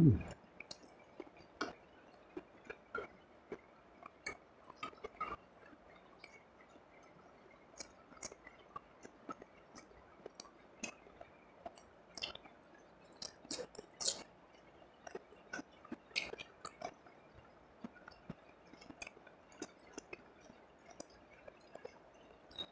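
Close-miked chewing of fried rice and fish: scattered short wet clicks and smacks of the mouth working, with an occasional crunch.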